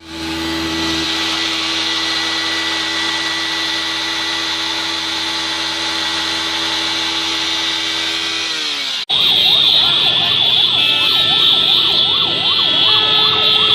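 Many horns held on at once as steady tones, sagging in pitch just before a sudden cut about nine seconds in; after the cut, rapidly warbling siren-type horns sound over steady horns, louder.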